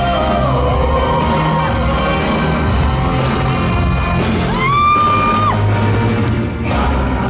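Live concert performance of an upbeat rock-style song: a male singer over a band with a steady bass and drum beat, sliding up to a held high note about four and a half seconds in.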